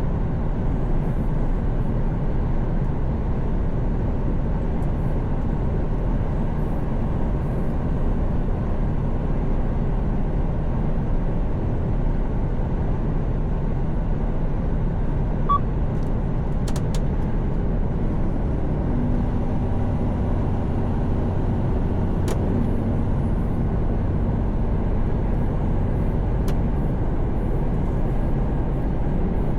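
Steady engine hum and road noise inside the cab of a Mercedes-Benz Actros truck cruising on the highway. The hum firms up a little past the middle, and a few faint clicks come in the second half.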